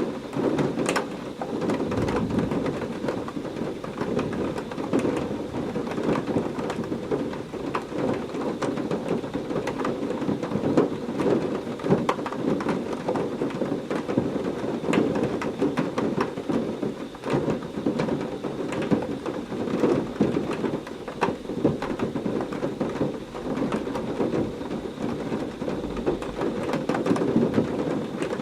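Heavy thunderstorm rain falling steadily, thick with close, sharp drop hits over a low continuous rumble.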